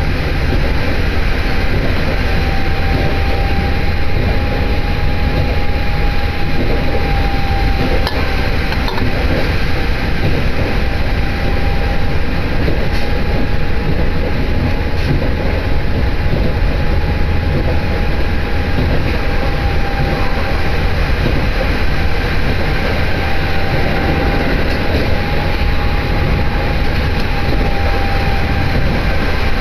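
Diesel train heard from inside the carriage while running along the line: a steady running noise of wheels and engine, heaviest in the bass, with a constant whine held over it.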